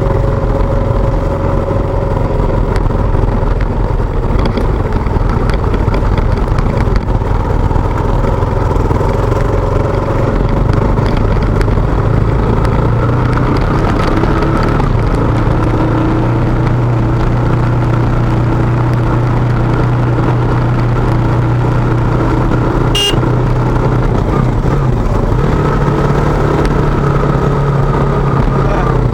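KTM motorcycle engine running steadily at low road speed, its pitch shifting a few times as the rider changes speed. One short sharp click comes about 23 seconds in.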